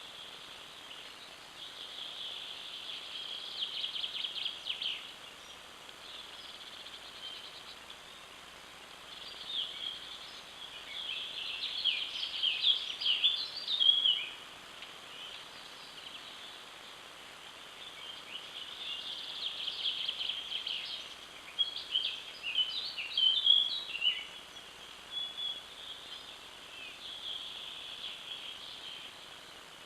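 Wild birds singing in bursts of high, rapid chirping phrases, each lasting a few seconds, over a steady faint hiss of outdoor background noise.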